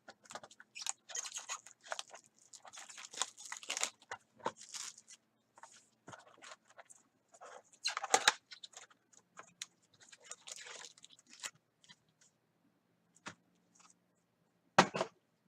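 Plastic wrapping crinkling and tearing as a sealed trading-card box is unwrapped and handled, in short irregular crackles, with one sharp snap near the end.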